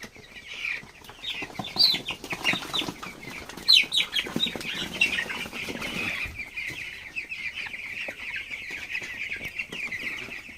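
A flock of young broiler chickens peeping and chirping continuously in many overlapping short calls. For the first half there is also scuffling and wing-flapping among the birds, after which the peeping alone goes on steadily.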